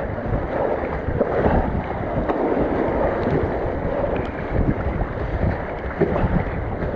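Fast river water rushing and splashing around a kayak running rapids in high water, with wind buffeting the microphone.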